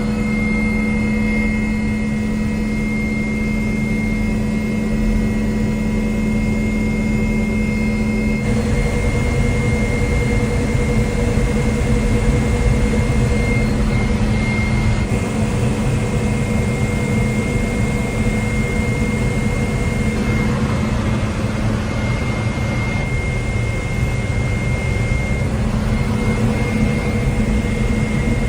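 Twin Lycoming T53 gas-turbine engines running, a steady high whine over a deep rumble. The sound shifts abruptly a few times.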